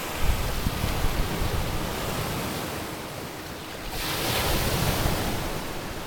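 Wind buffeting the microphone with a steady rushing noise, which swells and grows hissier about four seconds in.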